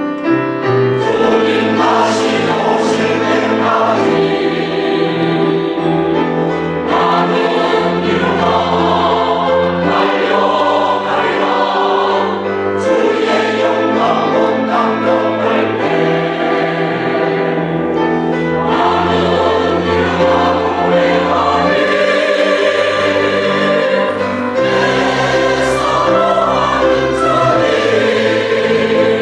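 Church choir singing a gospel hymn in full voice, in sustained phrases with brief breaks between them.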